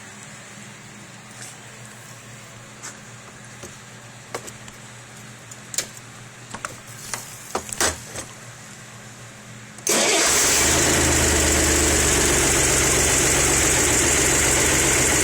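A few faint clicks and knocks, then about ten seconds in a Chevrolet Corvair's air-cooled flat-six catches suddenly from stone cold and runs steadily.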